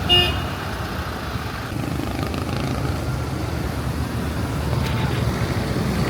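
Street traffic on wet roads in rain: vehicle engines running over a steady hiss of rain and tyres, with a short horn beep right at the start.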